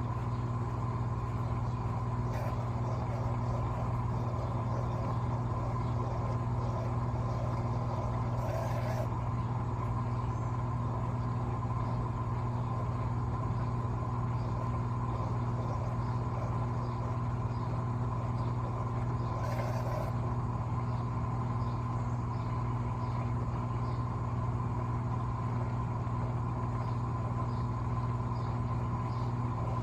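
Electrolux LTA15 washing machine running with a steady motor hum. Two brief louder swishes come about ten seconds apart, around 8 and 19 seconds in.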